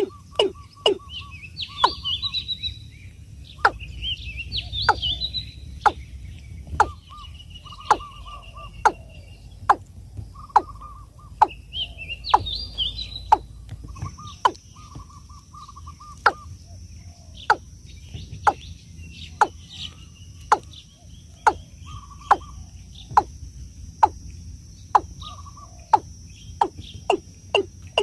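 Birds calling in a rice paddy: a steady run of sharp knocking notes, about one and a half a second, with short high chirps and brief mid-pitched notes mixed in between.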